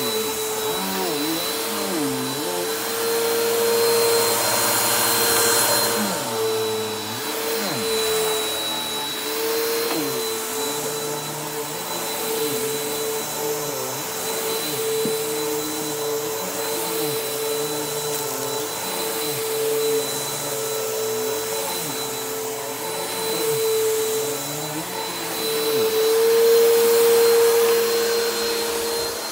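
Bissell PowerForce Helix upright vacuum cleaner running continuously while vacuuming. Its motor holds a steady whine under lower tones that keep wavering up and down.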